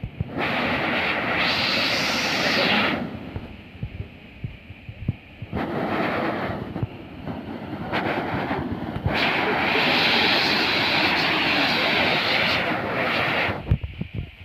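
Rushing waterfall noise that swells loud and drops back several times, with wind buffeting the microphone in low thumps.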